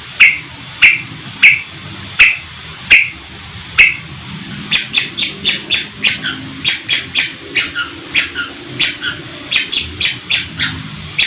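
Long-tailed shrike (cendet) calling in a series of harsh, sharp notes, evenly spaced at first. Just under five seconds in, the notes switch to a faster, higher-pitched run.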